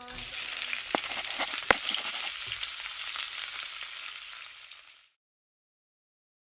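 Crackling hiss with a few sharp clicks, fading out over about five seconds, then cutting to dead silence.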